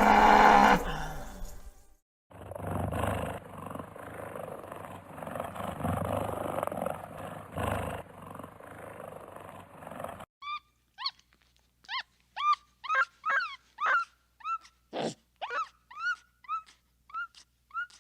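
Animal calls in succession. A loud, pitched call cuts off about two seconds in. Then comes several seconds of a large animal's rough growling, and from about ten seconds in, a run of short, sharp calls, each falling in pitch, about two a second.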